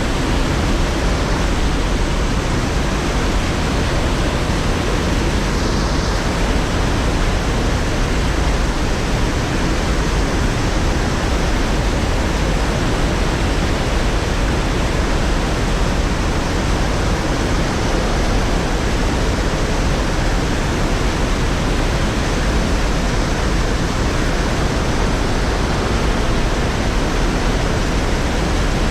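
Steady, loud rush of water pouring over a man-made waterfall at an old mill dam.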